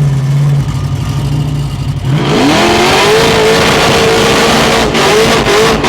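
The 6-litre engine of an HG Holden wagon burnout car idles, then about two seconds in it revs up quickly and is held at high revs for a skid, with a loud hiss over it to near the end.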